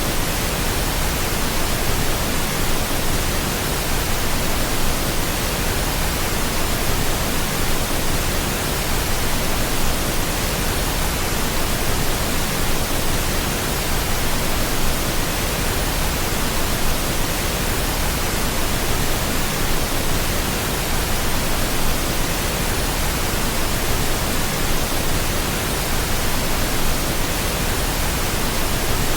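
Pink noise: a steady, even hiss across all pitches, not changing.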